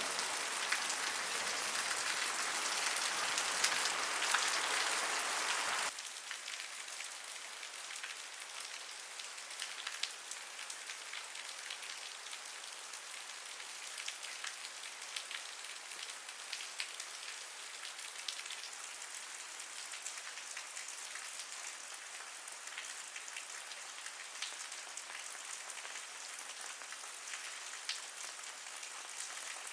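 Steady rain with many individual drops ticking. About six seconds in it cuts abruptly to a quieter, thinner patter in which single drops stand out.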